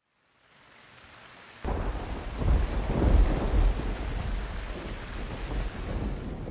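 Monsoon thunderstorm: heavy rain with rolling thunder. The storm fades in, jumps louder about a second and a half in, and the thunder rumbles strongest around three seconds in.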